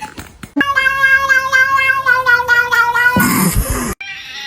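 A cat yowling: one long, wavering call starting about half a second in and lasting some two and a half seconds, followed by a short burst of noise and an abrupt cut.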